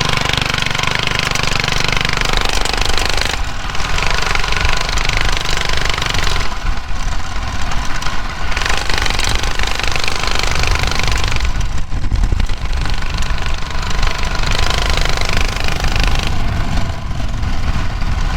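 Mini bike's small gas engine running as it is ridden. Its busy, rattling note eases off briefly a few times and picks up again, as the throttle is let off and opened.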